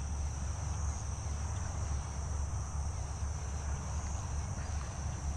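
Steady high-pitched chorus of crickets or similar insects, with a low steady rumble underneath.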